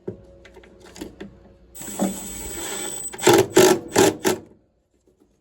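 A handheld power tool's motor runs: a steady whir for about a second, then about five short bursts in quick succession, then it stops.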